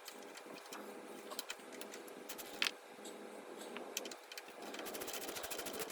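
Hand tools clicking and clinking on metal at the transmission mount bolts, with a quicker run of even clicks near the end.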